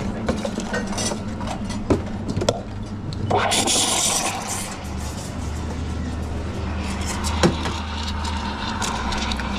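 Espresso machine hum behind the counter, with a few knocks and clinks of cups and machine parts and a short burst of steam hiss a few seconds in.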